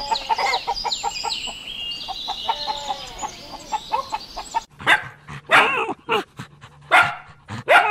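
A small dog, a Jack Russell terrier, barks several times from about five seconds in, with some whimpering. Before that there are softer sliding high tones.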